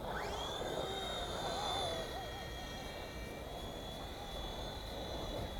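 WLtoys V911-pro RC helicopter's small electric motor and rotor whining in flight, a high-pitched steady whine that rises sharply in pitch right at the start and then holds steady.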